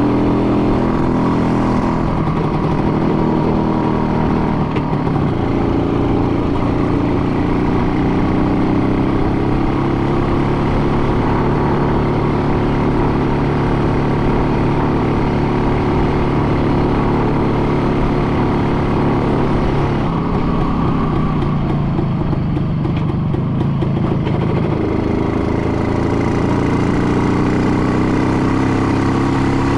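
An engine running continuously, its pitch drifting slowly up and down, with a dip about twenty seconds in.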